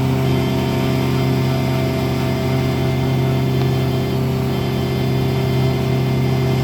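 Boat engine running at a steady speed, a steady low hum with a stack of even tones above it.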